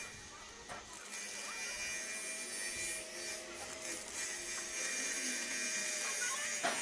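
A small motor running steadily with a high hiss that comes up about a second in, with a sharp click near the end.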